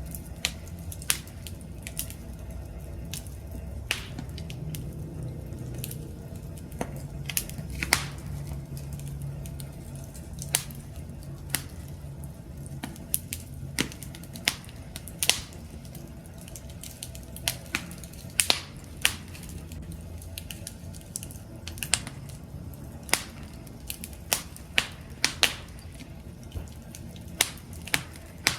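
Wood campfire crackling: irregular sharp pops and snaps over a steady low rumble of flames, the pops coming closer together in the last third.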